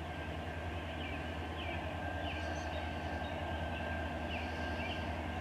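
Low, steady rumble of the approaching CN local's two diesel locomotives, with short high chirps repeating about every half second to a second over it.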